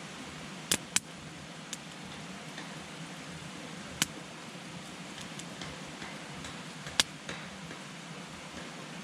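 Wood campfire burning with a steady hiss, broken by sharp crackles and pops from the burning wood: two loud pops about a second in, another near the middle and one more a little before the end, with fainter ticks between.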